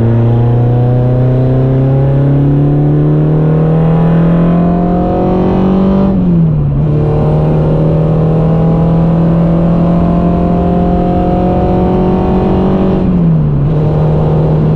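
Peugeot 106 Quicksilver's engine heard from inside the cabin, accelerating with its pitch rising, then an upshift about six seconds in where the pitch drops. It pulls again with a slowly climbing pitch, then drops at a second upshift near the end.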